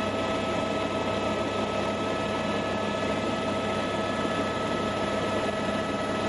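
Steady helicopter cabin noise in flight: an even rush of engine and rotor noise with a constant whine running through it.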